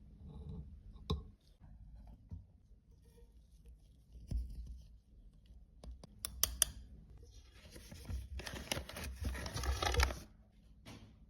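Hands working on a broken makeup product: scattered small clicks and taps, a quick cluster of sharp clicks about six seconds in, then two or three seconds of scratchy rustling handling noise.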